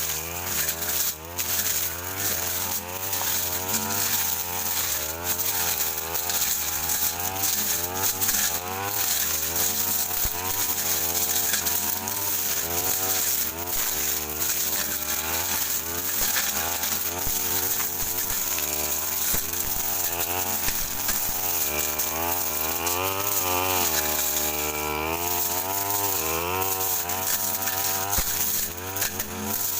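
Brush cutter engine running under load, its pitch repeatedly rising and falling as the blade is swung through thick undergrowth, with brief clatters of the blade striking brush.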